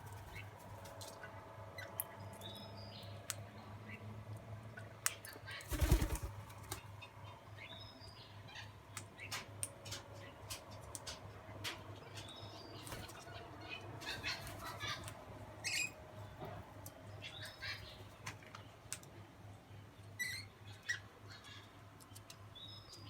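Small birds giving short high chirps, with many sharp clicks and a louder thump about six seconds in, over a steady low hum.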